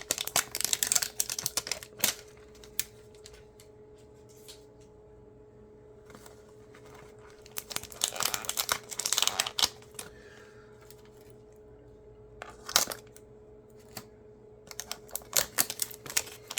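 Plastic wrapping of a trading-card pack crinkling and tearing as it is pulled open, in bursts with quieter pauses between and a sharp click near the end. A faint steady hum runs underneath.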